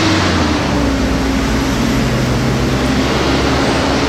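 Steady mechanical noise of an engine running, a loud even hiss over a low hum whose pitch shifts slightly about a second in.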